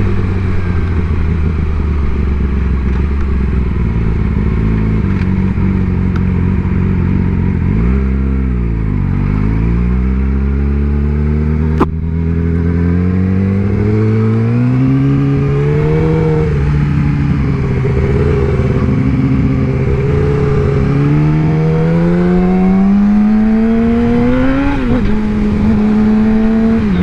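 Sport motorcycle engine under way: it holds a steady pitch, eases off and picks up again about eight seconds in, then accelerates with the pitch climbing and dropping back at each upshift. There is a single sharp click near the middle.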